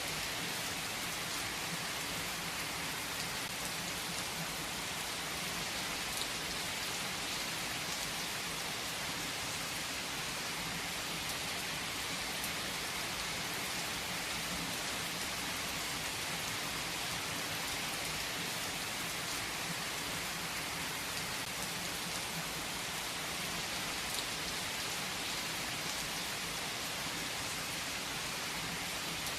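Steady rain falling and pattering on surfaces, an even hiss with a few individual drops ticking.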